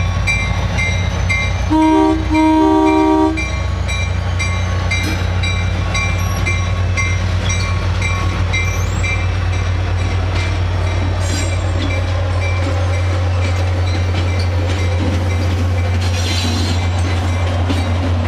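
ACE commuter train passing: the diesel locomotive's air horn sounds two blasts about two seconds in, a short one then a longer one. Under it runs the steady low drone of the diesel and the rumble and clatter of the bilevel coaches rolling by. A high ding repeating about three times a second runs through the first half.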